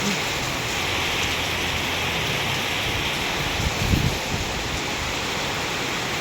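Heavy storm rain pouring steadily, a dense even hiss, with a brief low rumble about four seconds in.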